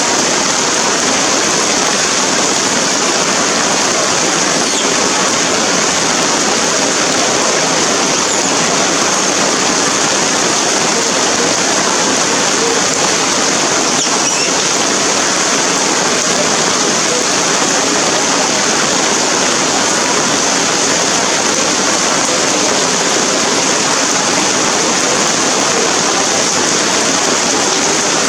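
Rain falling steadily, a continuous even hiss with no let-up.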